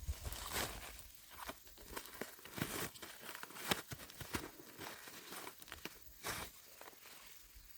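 Dry corn plants being handled: leaves and husks rustling and tearing, with irregular sharp snaps, the loudest a little before halfway through.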